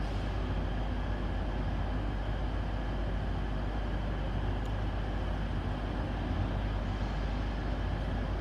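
Steady low rumble of trains standing at the platforms with their engines idling, heard in a large station train shed.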